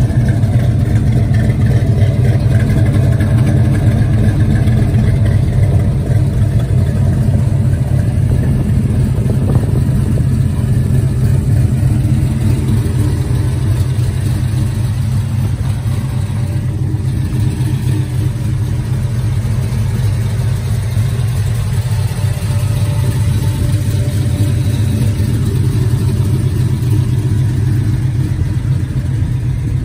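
A 1969 Chevelle SS 396's big-block V8, rebuilt to L89 375 hp specs, idling steadily through headers and a new dual exhaust, with a low, even exhaust note and no revving.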